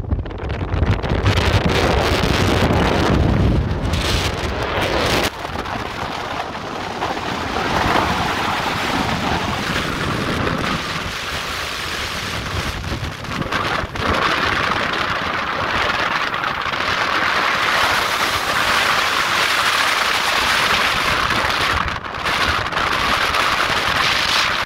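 Off-road vehicle driving across desert sand, with a steady rush of wind buffeting the microphone.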